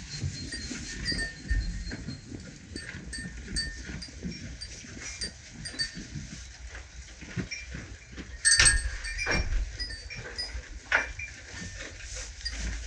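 Farm animals moving about in their pen: steady rustling with scattered knocks and clinks, and a louder clatter about eight and a half seconds in.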